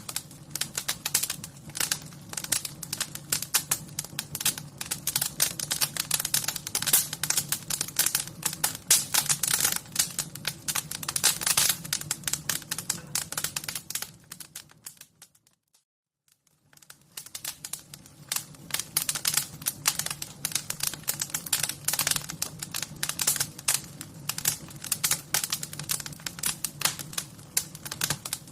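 Wood fire crackling with dense, irregular crackles and pops over a low steady rumble; the crackling fades out to silence about halfway through and fades back in.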